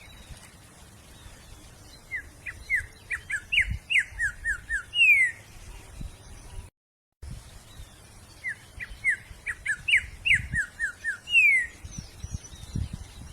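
A wild songbird singing, twice giving the same quick phrase of about a dozen short, falling notes that ends in a longer, louder downward slur.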